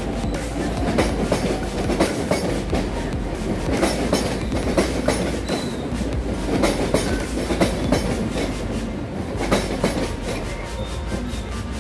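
SuperVia CNR electric multiple unit passing close by, its wheels clacking over the rail joints in a quick, uneven run of sharp clicks over a steady low running noise.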